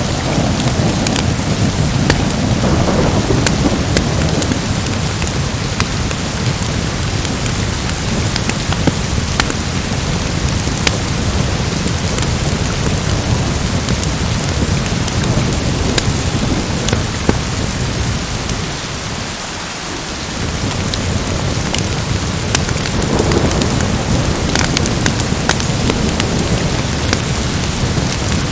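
Steady rain with a low rolling rumble of thunder that eases briefly about two-thirds of the way through. Sharp crackles of a fire are scattered throughout.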